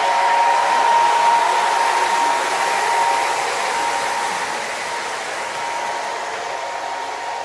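Model train running on the layout track: a steady rolling hiss with a high motor whine, slowly fading.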